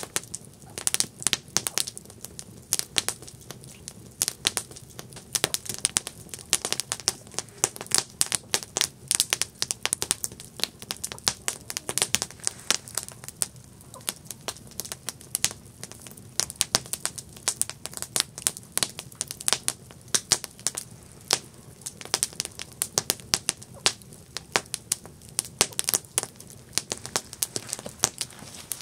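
Campfire burning, its wood crackling and popping in many quick, irregular snaps over a low steady hiss.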